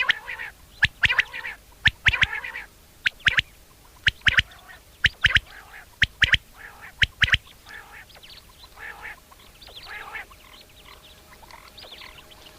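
Common quail calling: groups of two or three sharp, clipped notes about once a second, among softer nasal calls. The sharp notes stop about seven seconds in, and only the softer calls go on.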